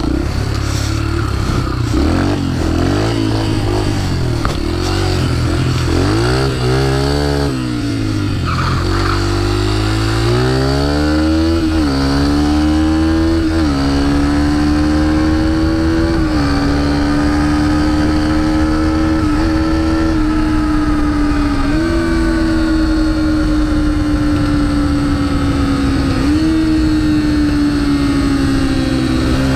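Pit bike engine revving unevenly, then climbing to high revs about twelve seconds in and held there, with the pitch dipping briefly every few seconds as the throttle is eased and reopened.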